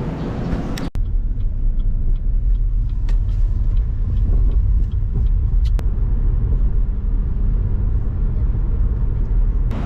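Steady low rumble of a car's engine and road noise heard from inside the cabin while riding. It starts abruptly about a second in.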